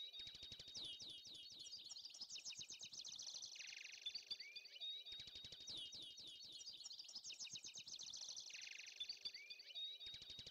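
Faint birdsong: many quick chirps and twitters, in a pattern that repeats about every five seconds.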